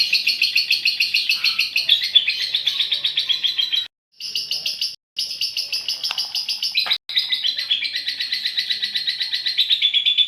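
Female lovebird's long chattering 'ngekek' song: a rapid, continuous trill of sharp high notes, about seven a second. It is broken by two short gaps about four and five seconds in and a brief break near seven seconds.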